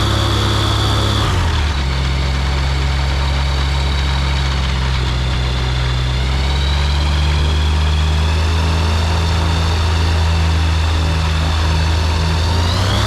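Ultralight aircraft engine and propeller running steadily, with a low drone and a higher whine. The pitch shifts about a second in, then holds steady.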